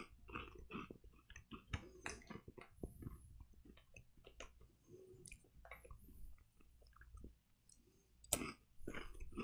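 Chewing of small arare rice crackers: irregular crunches, with a louder crunch near the end.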